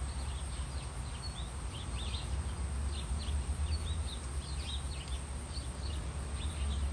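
Small birds chirping in short, scattered calls over a steady low rumble of background noise.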